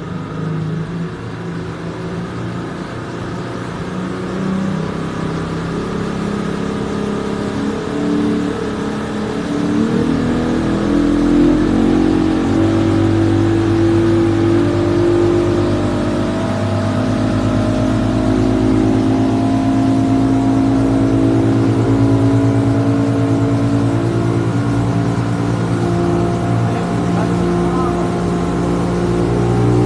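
Outboard motor on an aluminium boat, speeding up and growing louder over the first ten seconds or so, then running steadily at high speed.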